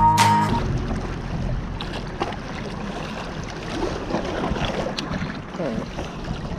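Wind rushing on the microphone over steady noise from the lake shore, after a strummed acoustic guitar track cuts off about half a second in.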